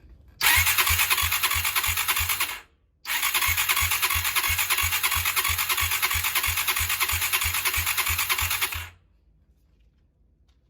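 Honda GB250's electric starter cranking its single-cylinder engine in two tries, a short one then a longer one, with an even chug of about four compression beats a second. The engine does not catch and the cranking stops abruptly.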